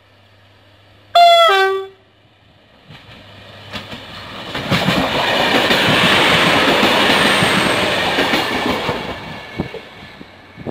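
A Croatian Railways train sounds one short horn blast that falls in pitch, then passes, its wheel noise swelling, with clicks over the rail joints, and fading away.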